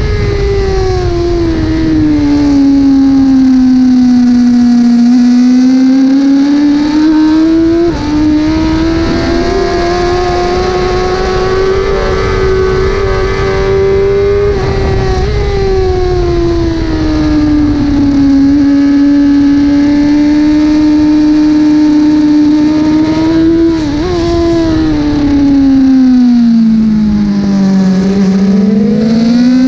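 1000 cc superbike engine running hard at race pace. Its pitch sinks and climbs over several seconds at a time, with sudden jumps about eight and twenty-four seconds in.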